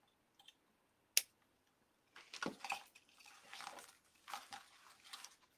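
A sharp click about a second in, then crinkly rustling and crackling in uneven bursts as plastic deco mesh is handled and worked by hand.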